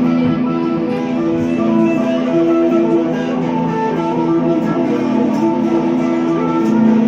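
Guitar playing an improvised blues, with held, sustained notes that change every half-second or so.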